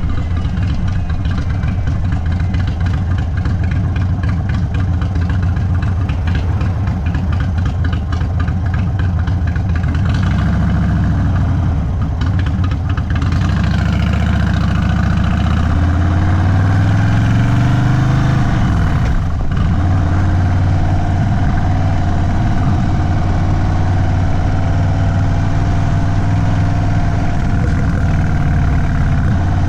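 Indian Sport Chief motorcycle's V-twin running through an aftermarket Sawicki Speed exhaust while riding. The engine pitch rises for a few seconds past the middle, drops suddenly, then settles into a steady run.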